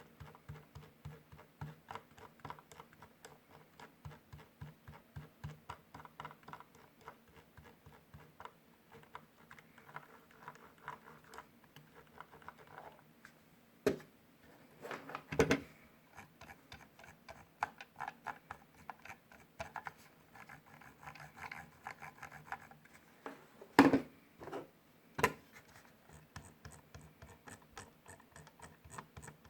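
Logitech G502 mouse scroll wheel being rolled, making runs of fine, rapid ratchet ticks, with a few louder knocks about halfway through and again about four fifths in.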